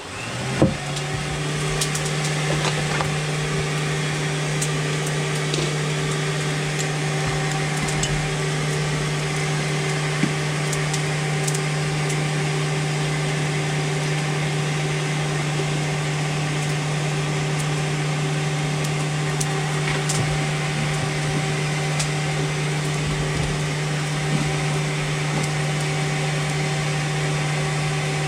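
An electric motor-driven machine switches on and spins up within about a second, then runs at a steady, even hum with no change in load.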